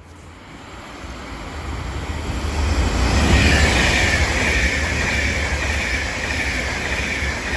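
Avanti West Coast Class 390 Pendolino electric train coming in, its rumble growing louder over the first few seconds and then holding steady, with a high whine that slowly falls in pitch.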